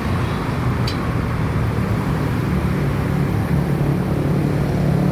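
A motor vehicle engine running with a steady low hum, with a single short click about a second in.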